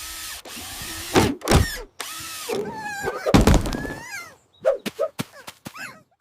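Power drill running in bursts, broken by heavy thuds, with squeaky sliding tones in the middle and a run of short knocks and clicks near the end.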